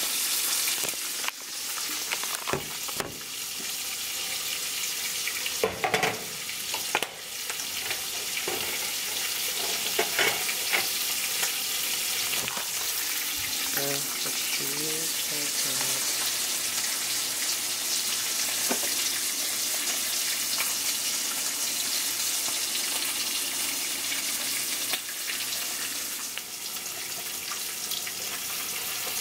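An egg with cheese frying in a pan, a steady sizzle, with a few sharp knocks in the first several seconds.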